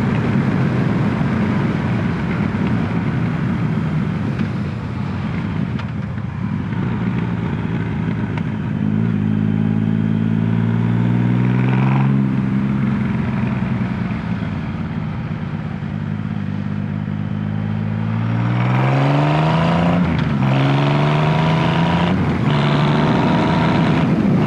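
Triumph Rocket 3's inline-triple engine pulling under hard acceleration in fifth gear, heard from the saddle over heavy wind rush. Its note climbs about ten seconds in and again near the end, with a few brief breaks in the pull.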